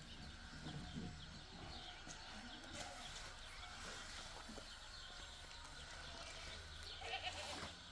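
Faint outdoor ambience with scattered short bird chirps over a low steady hum.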